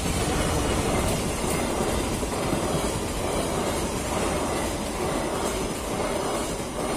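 Diesel-hauled passenger train passing close by over a level crossing: a loud, steady rumble of the locomotive and coaches with wheels clattering over the rails.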